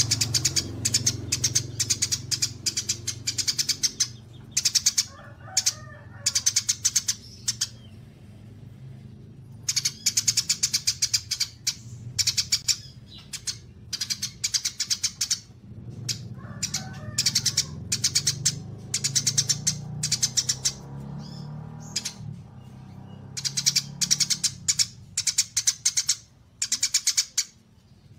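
Small songbirds singing in rapid, high-pitched trills that come in repeated bursts of a second or two, with a few lower chirps between them, over a steady low hum.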